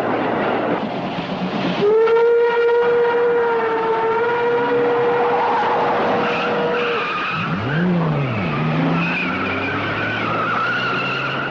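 Car chase sound from a film soundtrack: engine rumble, then long tyre squeals as a car skids. The first squeal comes about two seconds in and holds steady for around five seconds, then wavering squeals follow, with a brief rising-and-falling tone near eight seconds.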